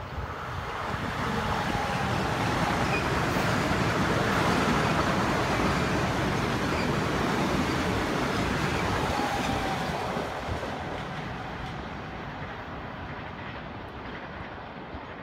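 Metro-North M7A electric commuter train passing at speed: the rush and rumble of its wheels on the rails builds over about two seconds, stays loud for several seconds, then dies away.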